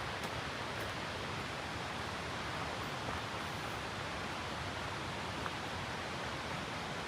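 Steady rushing water, an unbroken hiss-like roar of falling or flowing water, with a few faint ticks over it.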